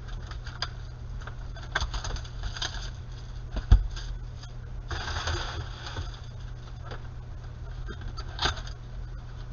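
Trading cards and their packaging being handled: a string of light clicks and rustles, a low thump about a third of the way in, and a longer rustle around two-thirds of the way through.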